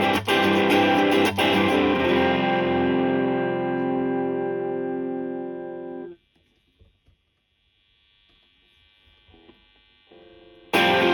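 Electric guitar played through a Suhr Shiba Drive Reloaded, a TS-style overdrive pedal: a few strummed distorted chords, then a chord left to ring for about four seconds, cut off sharply about six seconds in. Near silence follows, and loud playing starts again just before the end.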